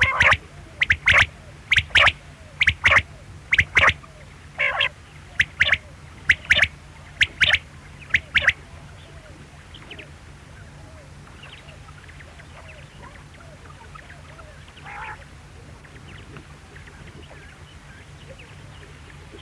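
Quail calling: a run of short, sharp calls, about one a second for the first eight seconds or so, then only a few faint calls. A steady low hum runs underneath.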